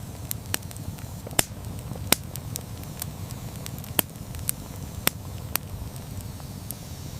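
Wood campfire burning: a steady low rumble of flame with irregular sharp pops and crackles from the burning wood. The loudest pops come about a second and a half in and just after two seconds.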